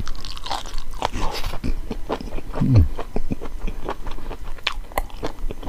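Close-up chewing of chicken gizzard curry, a run of wet clicks and crunches as the firm gizzard meat is bitten and worked. A short low sound falling in pitch comes about halfway through.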